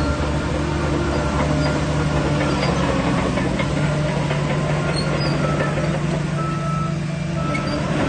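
Heavy diesel earthmoving machinery running steadily under load, a deep engine note with a dense metallic clatter and occasional thin high squeaks.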